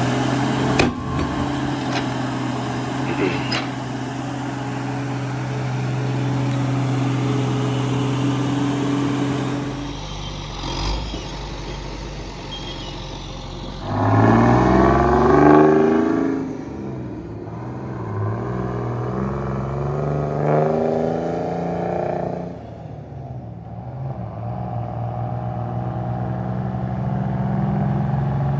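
Heavy diesel engine of logging machinery running steadily, then revving up in rising pulls about halfway through and again a little later before settling back to a steady run.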